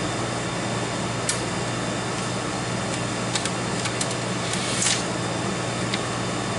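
A steady mechanical hum with a few sharp clicks and a short rustle about five seconds in, from the ticket printer and its paper stock being handled.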